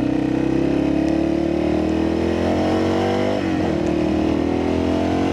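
Yamaha XT600's single-cylinder engine pulling while ridden. The pitch climbs steadily, drops at an upshift about three and a half seconds in, then climbs again.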